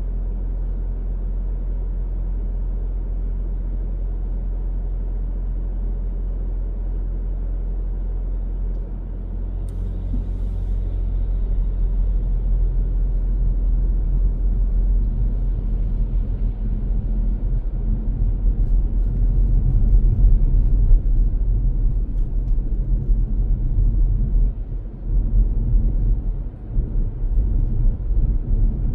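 Low rumble of a car's engine and road noise. It is a steady hum for about the first nine seconds, then grows louder and more uneven.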